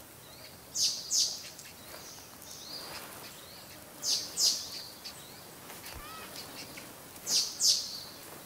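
A bird calling in three pairs of short, high, falling notes, about three seconds apart, over faint outdoor ambience.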